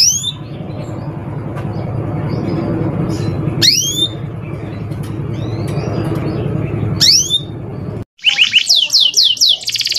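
Male canary singing rapid, clear trills near the end, after a brief dropout. Before that, three loud downward-sweeping bird calls come about every three and a half seconds over a steady low rumble.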